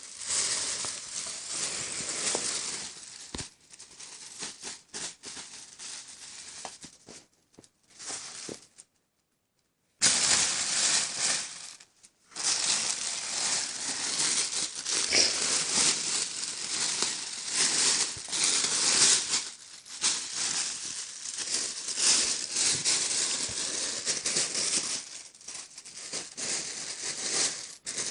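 Black plastic bag crinkling and rustling as a cat moves and plays inside it, loud and irregular, stopping and starting, with a complete drop-out of about a second a third of the way through.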